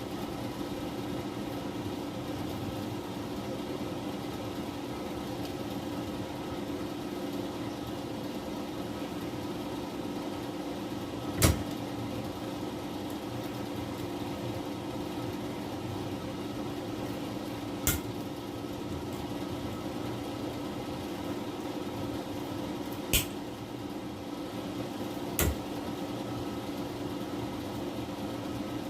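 Steady mechanical hum, with four short sharp knocks spread through the second half.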